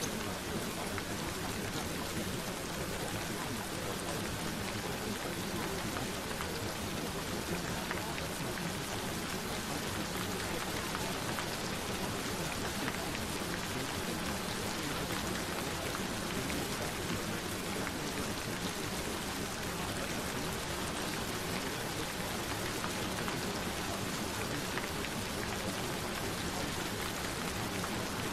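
Gentle rain falling steadily: an even, unbroken hiss of rainfall.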